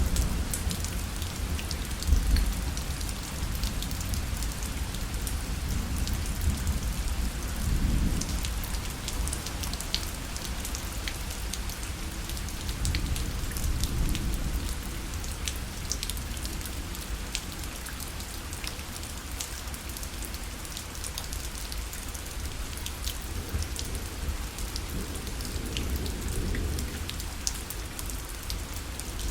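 Steady rain falling on a fabric parasol, with many individual drops ticking sharply on the canopy. A low rumble rises and falls underneath several times.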